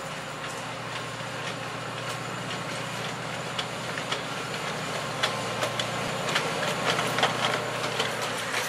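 A miniature train running, its engine giving a steady low hum. A growing run of sharp clicks and clacks starts about halfway through.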